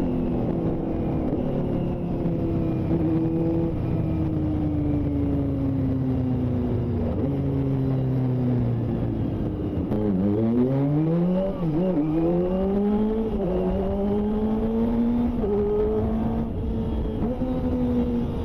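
Kawasaki ZX-25R's 250 cc inline-four, heard through a Yoshimura Alpha exhaust, on the move. The engine note sinks slowly as the bike eases off, dips and recovers sharply twice around the middle, then climbs again through the gears with a short drop at each upshift.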